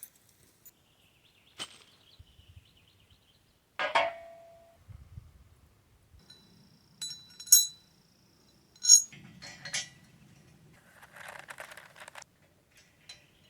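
Metal hardware clinking and clanking as it is handled: a scatter of separate sharp knocks, the loudest about four seconds in, some ringing briefly, with a soft rustle near the end.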